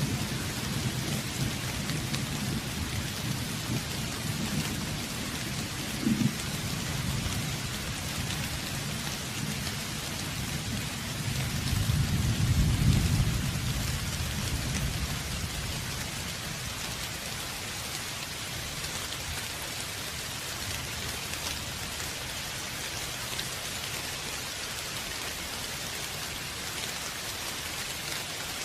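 Steady rain falling with rolling thunder. A low rumble runs through the first half, with a short sharper clap about six seconds in, and swells to its loudest about twelve seconds in. Then it dies away, leaving only the even hiss of the rain.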